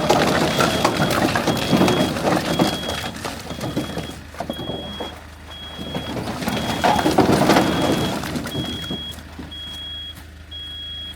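A truck's reversing beeper sounds a short high beep about once a second, over loud clattering of firewood logs being unloaded. The clattering comes in two spells, the first in the opening seconds and the second around six to eight seconds in.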